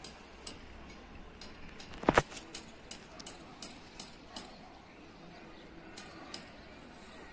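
Sharp clicks and clinks with a slight metallic ring: one loud knock about two seconds in, then a quick run of lighter clicks, about three a second, and two more near the end.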